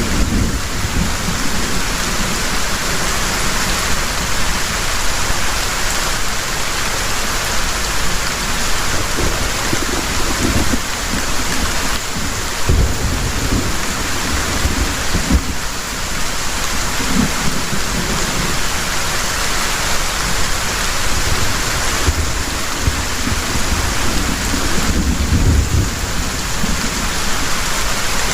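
Heavy rain falling steadily, with low rumbles of thunder coming and going several times.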